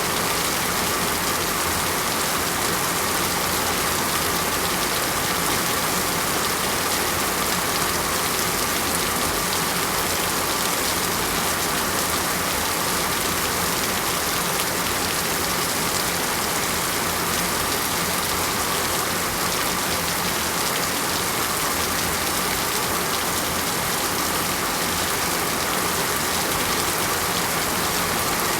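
Heavy rain falling steadily on surfaces, a dense, even hiss of countless drops with no letup.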